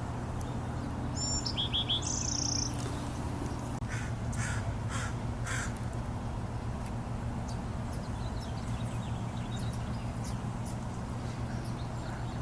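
Wild birds calling. A brief high-pitched chirping phrase is followed about two seconds later by four harsh calls in quick succession, over a steady low hum.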